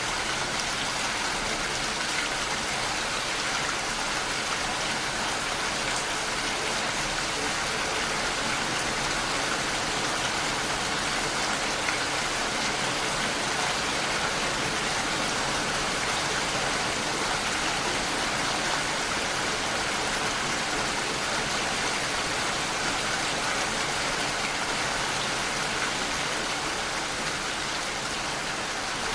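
Rain falling steadily against a window pane: an even, unbroken hiss of drops.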